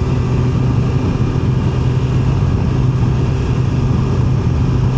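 QJMotor SRK 921 RR's 921 cc inline-four engine running at a steady cruising speed, its note holding one even pitch, over a constant rush of wind and road noise.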